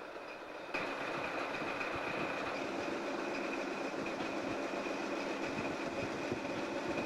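USAF Engine 4040, a rail locomotive, running as it moves coal cars along the track: a steady rumble of engine and rolling wheels with a thin high steady tone over it, stepping up suddenly in loudness under a second in.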